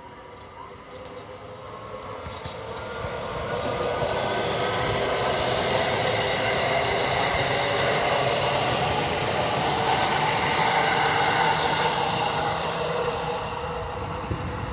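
Electric train running along the track: the rumble and hum build over about four seconds, hold loud and steady with a humming motor tone, then start to fade near the end.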